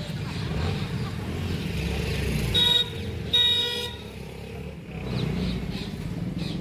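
A vehicle horn honking twice about two and a half seconds in, a short toot and then a longer one, over a steady low street rumble.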